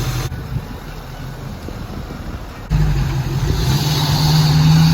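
Truck engine noise: about two and a half seconds in, a low steady engine drone cuts in suddenly and builds louder as the engine is revved.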